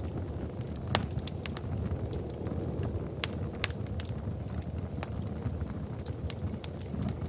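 Wood fire crackling in a fireplace: a steady low rumble of flames with irregular sharp pops and snaps, the loudest about a second in.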